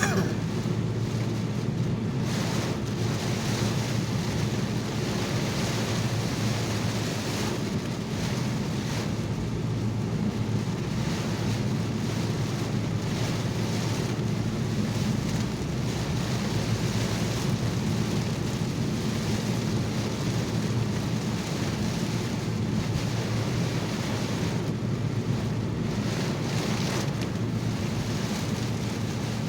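Steady rush of heavy rain and tyres on a wet road, heard inside a moving car's cabin during a thunderstorm, with the hiss swelling and easing a few times.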